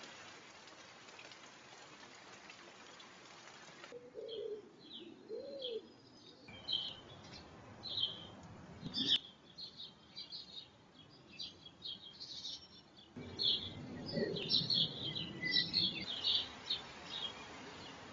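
Garden birdsong: many short, high chirps and twitters from small birds, starting about four seconds in after a few seconds of steady hiss. The chirps come in several abruptly cut stretches, with a few brief low sounds underneath.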